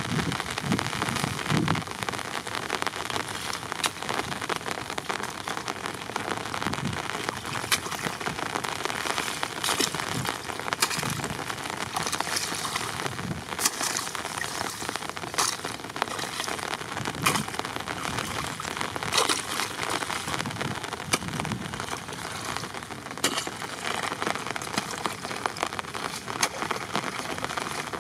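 Steady rain falling, with many sharp drop ticks scattered through it and a few dull low thumps.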